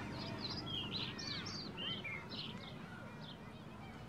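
Small birds chirping: many short, quick chirps, thickest in the first two seconds and thinning out after, over a low steady background rumble.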